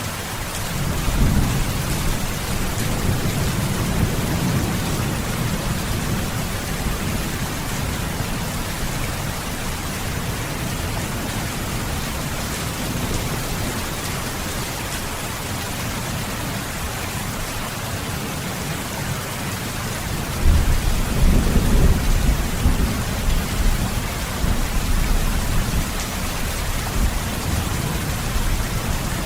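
Steady rain hissing, with rolling thunder. One low rumble comes about a second in and fades over several seconds, and a second, louder rumble begins about two-thirds of the way through.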